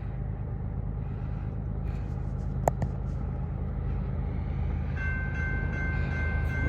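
Low rumble of an approaching CSX freight train, with one sharp click a little before halfway and a steady chord of several high tones coming in about five seconds in.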